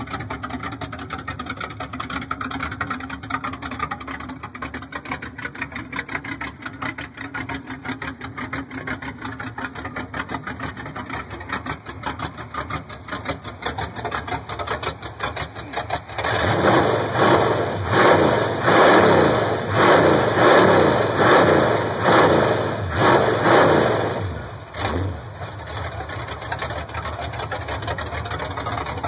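1983 Camaro drag car's engine idling with a fast, even pulse, then revved hard in a string of about eight throttle blips for some eight seconds before settling back to idle.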